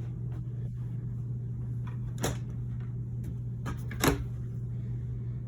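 Two sharp knocks about two seconds apart, with a few lighter clicks, over a steady low hum: a pantry cabinet door being opened and shut.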